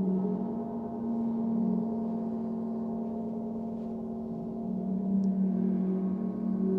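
Gong ringing in long, sustained, overlapping tones that waver as they beat, swelling louder again about a second in and once more past halfway.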